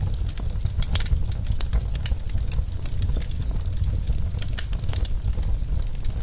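Wood fire crackling in a clay fireplace: frequent sharp, irregular pops and snaps over a steady low rumble.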